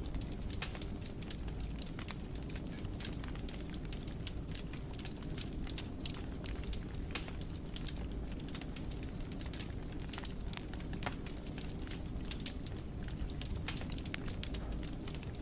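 Wood fire in a fireplace crackling, with frequent sharp pops and snaps over a steady low rumble from the flames.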